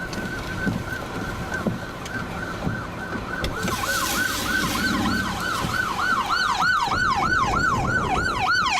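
An emergency-vehicle siren in a fast yelp, its pitch sweeping up and down about three times a second. It grows louder from about four seconds in, as if coming closer.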